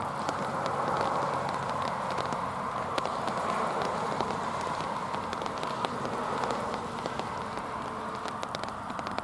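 A train passing over the level crossing: a steady rolling rush of wheels on rail, peppered with irregular sharp clicks.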